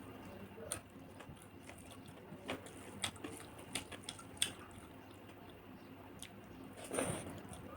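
Close-miked wet eating sounds from a fish curry meal: scattered small clicks and squelches of mouth and food, with a slightly longer, louder one about seven seconds in.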